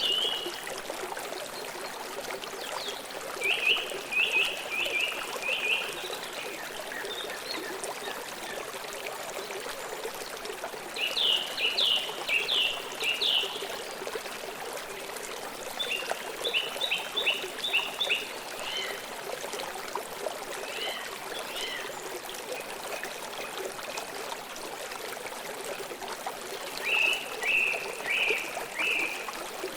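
Steady flow of a stream running over stones, with a bird calling four times in short series of quickly repeated notes, each series lasting two to three seconds.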